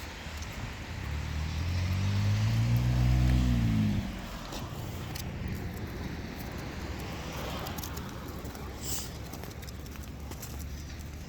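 A car driving close past, its engine note rising slightly for about three seconds and cutting off about four seconds in, followed by steady street noise with scattered light ticks.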